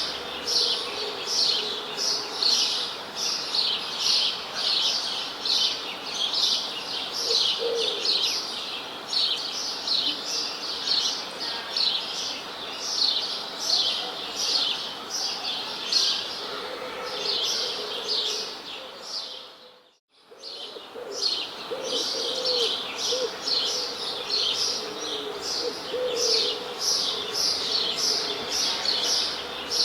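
A dense chorus of small songbirds chirping continuously, the high chirps following one another several times a second. The sound briefly fades out to near silence and back in about two-thirds of the way through.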